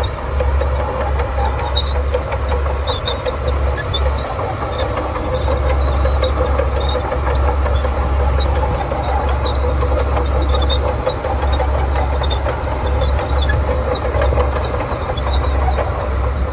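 Shantui DH17C2 bulldozer's diesel engine running steadily with a deep low drone, with small high-pitched clicks scattered throughout.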